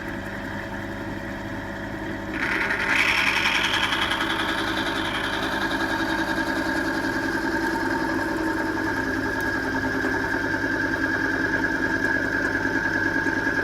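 Timken load test machine running a bearing under load in an oil bath: a steady motor hum with a whining tone. About two seconds in it gets suddenly louder and harsher, then runs on steadily.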